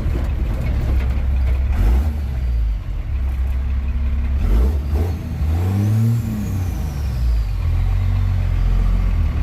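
Engine of a square-body 3/4-ton pickup truck running at low speed, with a brief rev that rises and falls about six seconds in.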